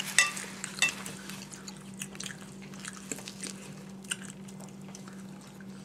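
Close-up chewing and biting of toasted BLT sandwiches, with scattered short crunchy bite and mouth clicks, the sharpest in the first second, over a low steady hum.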